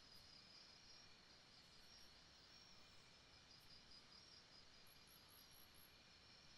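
Faint jungle ambience: insects trilling in a steady, pulsing chorus, with a quick run of about five high chirps about five seconds in.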